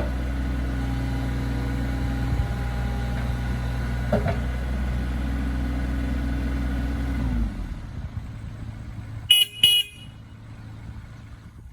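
Bobcat E26 mini excavator's diesel engine idling steadily, then switched off about seven and a half seconds in and dying away. About two seconds later come two short, high beeps in quick succession.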